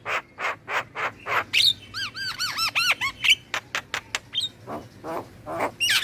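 Javan mynas and other starlings chattering: a busy mix of short harsh squawks and clicks, with a fast run of repeated whistled notes about two seconds in and scattered rising whistles.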